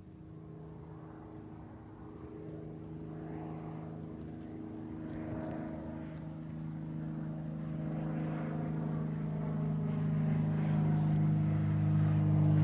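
Propeller airplane engine droning steadily and growing much louder as the aircraft approaches.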